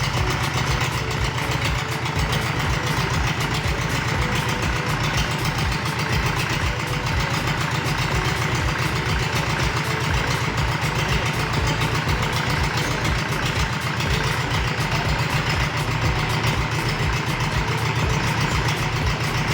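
Forklift diesel engine idling steadily, with an even low beat.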